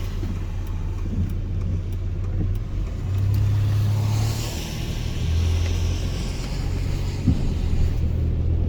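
Car driving on a wet road, heard from inside the cabin: a steady low engine and tyre rumble that grows a little louder and then settles, with tyre hiss swelling in the middle. A single sharp click comes near the end.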